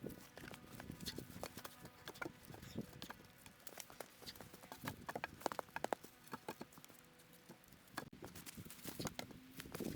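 Light, irregular knocks and clicks of wood being handled, with a quick run of louder knocks about halfway through.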